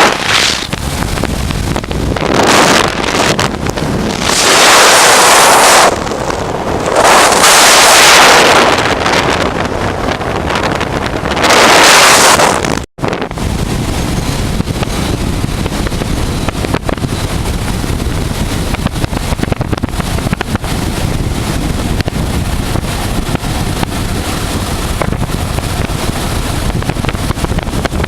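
Wind buffeting the microphone of a motorcycle riding at speed: loud gusts of wind in the first half, then, after a sudden brief dropout about halfway through, a steady low rush of wind and riding noise.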